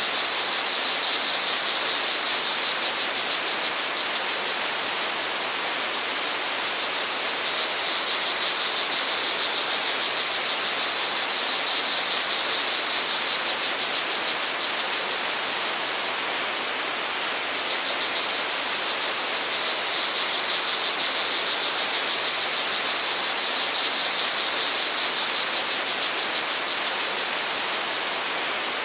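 Steady rush of flowing water, with crickets trilling in a fast, high pulsing chirr that fades in and out in bouts of several seconds.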